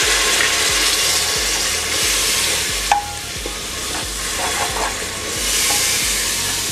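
Onion, ginger-garlic paste and ground spices sizzling in hot oil in a pressure cooker pot after a splash of water, with a wooden spatula stirring and scraping through the masala. The sizzle eases about halfway through and swells again near the end.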